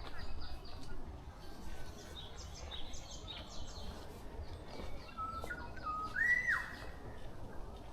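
Wild songbirds singing in a dawn forest chorus: a run of high, thin chirps over the first few seconds, then a clear whistled phrase about five seconds in that steps up, holds, and drops away.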